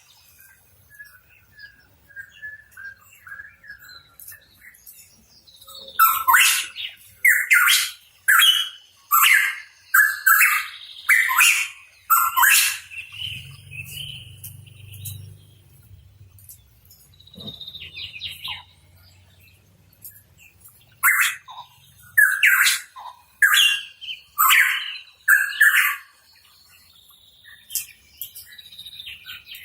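Pitohui calling. There are two runs of loud, short notes, each run about seven notes roughly a second apart, one starting about six seconds in and one about twenty-one seconds in, with quieter calls between.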